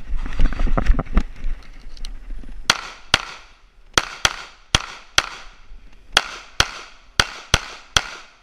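Glock 19 9 mm pistol fired in a rapid string of about eleven sharp shots, mostly in quick pairs (double taps), each with a short echoing tail. Before the shots comes a loud, low rumbling jumble of knocks.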